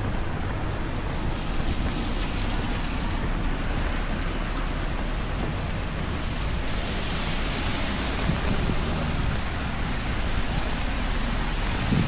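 Steady hiss of heavy rain over a low rumble, growing brighter and stronger for a few seconds about seven seconds in.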